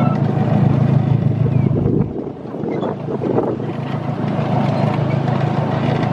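An engine running steadily with a low hum, dipping briefly about two seconds in before carrying on.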